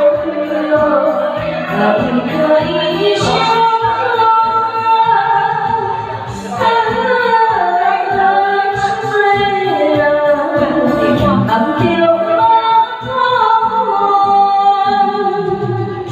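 Singing of a Taiwanese Hokkien song over backing music with a steady beat.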